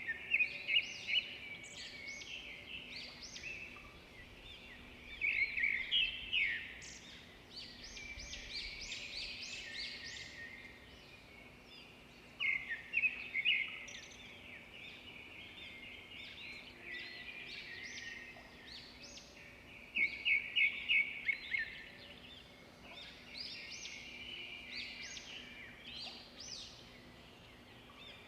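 Songbirds singing. One bird repeats a short phrase of rapid notes about every seven seconds, and lighter chirps from other birds fill the gaps.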